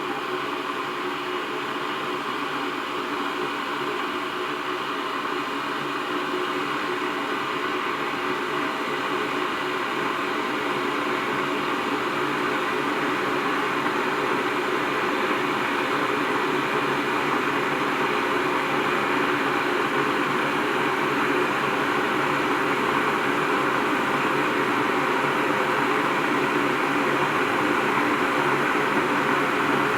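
IRIT IR 1360 electric kettle heating a nearly full load of water: a steady rushing hiss that slowly grows louder as the water heats.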